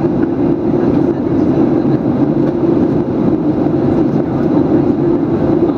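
Steady low rush of cabin noise inside a Boeing 737-800 airliner in flight: airflow over the fuselage and the CFM56 turbofan engines.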